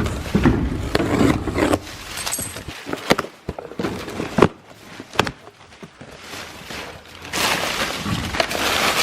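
Car parts and tools being handled and rummaged through: scattered knocks, clunks and rustling, with a steady rushing noise starting near the end.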